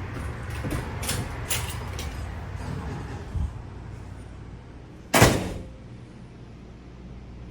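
A single loud thump about five seconds in, after a few lighter knocks, over a steady low rumble.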